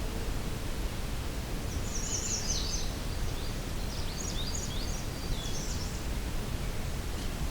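A songbird sings one high, quick song of short notes, starting about two seconds in and lasting about four seconds, loudest at its start. Under it is a steady low background noise.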